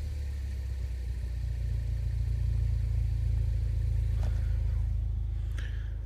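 2013 Ford Focus ST's turbocharged 2.0-litre four-cylinder idling at the exhaust tailpipe, a steady low rumble settling after a rev. A couple of faint ticks come near the end.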